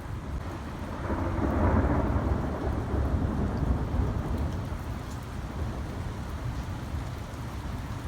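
A low rumble of thunder swells about a second in and fades away over the next few seconds, over steady rain.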